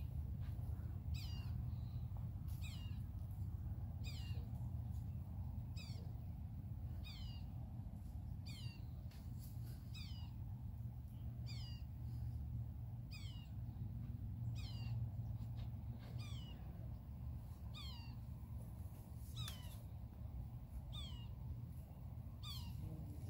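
A bird calling over and over: a short high note sliding downward, about once a second, over a steady low rumble.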